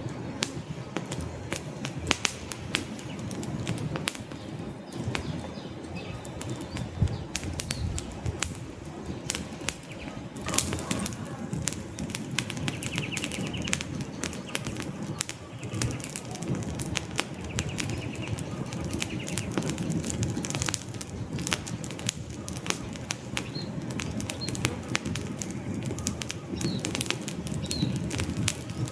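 Wood fire crackling, with frequent irregular sharp pops and snaps over a steady low rumble of flames.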